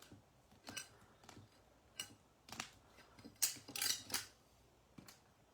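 Baseball trading cards being handled and sorted on a table: a series of brief swishes and taps, most of them clustered a little past the middle.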